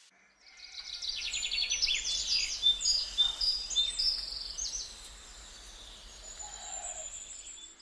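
Small birds chirping and singing in quick runs of repeated high notes, several calls overlapping in the first few seconds and thinning out later, with a thin, steady high note near the end.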